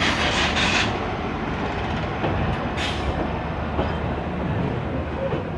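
Vikramshila Express passenger train running along the track, a steady low rumble, with a louder rushing hiss for the first second and a brief hiss about three seconds in.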